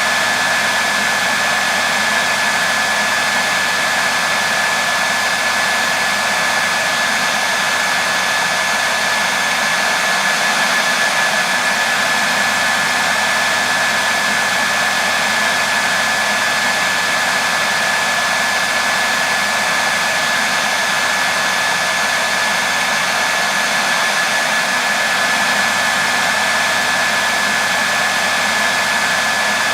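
Hair dryer running steadily: an even rush of blown air with a steady high whine from its motor.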